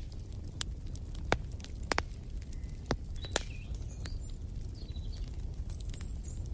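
Wood fire crackling in a fireplace: sharp pops every half second to a second over a low, steady rumble of the flames. Faint high bird chirps come through in the middle.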